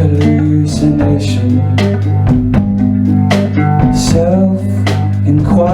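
A song played live by a guitar band with a steady low bass line and a regular beat. A voice sings one long line about a second in, and the guitar and bass carry on after it.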